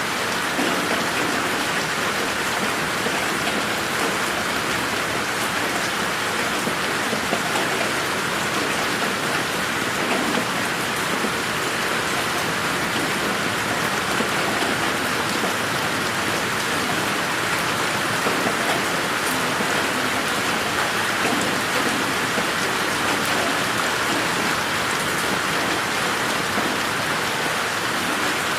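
Steady rain falling on a garden: an even hiss with fine patter of drops, mixed as 8D audio that pans around the listener's head.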